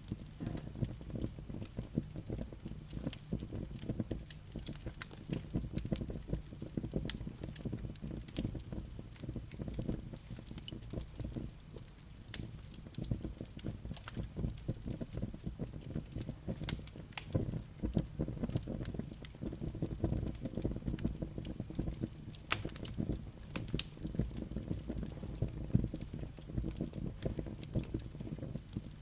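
Wood fire burning in a fireplace: a low steady rumble of flames with many small crackles and sharp pops from the burning logs and embers.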